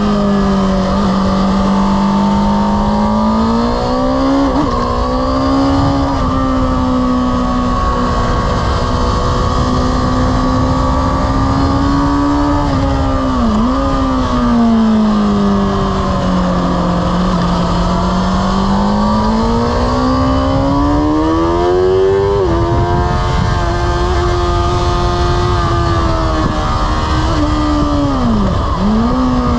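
Honda sport motorcycle engine heard onboard at speed on a race track, its revs rising and falling smoothly through the corners. There are three brief, sharp dips in revs: about four seconds in, about halfway, and near the end.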